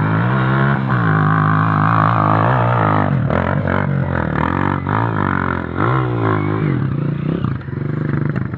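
Off-road trail motorcycle engine running, fairly steady at first and then revving up and down about once a second as the throttle is worked.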